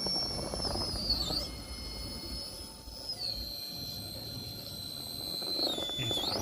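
High-pitched electric whine of an RC rock crawler's brushless motor and ESC (3Brothers Yellow Jacket 2000kv motor, Mamba X ESC), changing pitch with the throttle: it dips briefly about a second in and again near the end, and steps down to a lower pitch about three seconds in. A low rumbling noise runs underneath.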